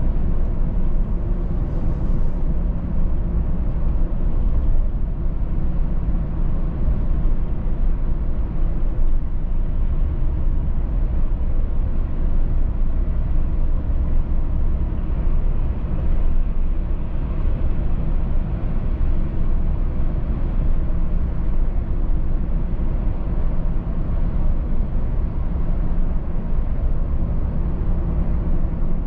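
Car driving steadily at road speed: a constant low rumble of engine and tyres on the road, with an even level throughout.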